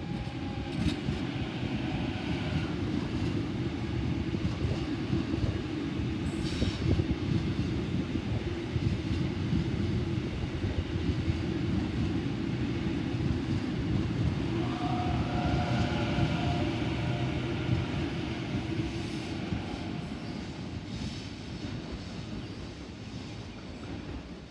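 Sydney Trains Waratah (A set) double-deck electric train running through the station without stopping, a steady heavy rumble of wheels on rail. About fifteen seconds in, a wheel squeal sounds over it for a few seconds. The rumble eases near the end.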